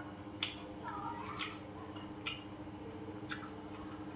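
Mouth sounds of a person chewing food, with a short sharp click about once a second, five in all, over a faint steady hum.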